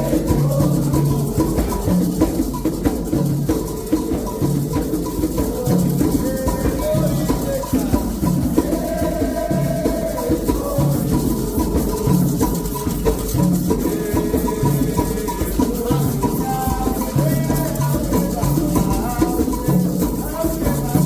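Candomblé ritual music: hand drums beating a steady repeating rhythm and a rattle shaking, with voices singing a chant over them.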